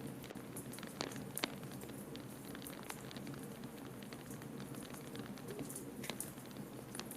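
Wood fire crackling in a fireplace, with irregular small pops and one louder pop about a second and a half in, over a steady low rushing.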